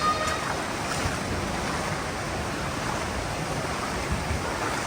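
Steady rush of a mountain stream pouring over rocks in a gorge.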